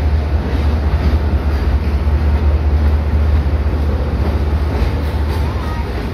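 Train pulling into a station, its freight wagons and passenger coaches rolling past with a steady, loud low rumble.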